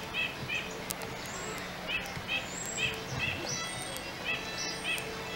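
Small birds chirping, short quick notes in little clusters of two or three, with a few brief high whistles, over a steady low hum.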